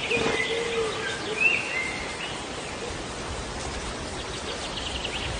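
Steady hiss of running water, like a shower spray, with a pet bird's few short whistled chirps in the first two seconds.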